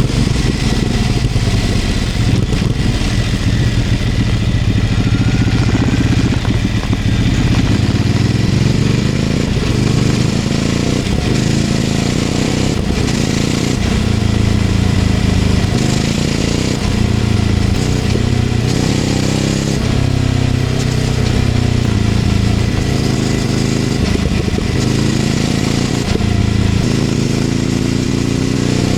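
Ducati Scrambler 800's air-cooled L-twin engine, breathing through a LeoVince LV-10 aftermarket exhaust, heard from the bike while riding. Its revs rise and fall over and over as it accelerates, shifts gear and eases off.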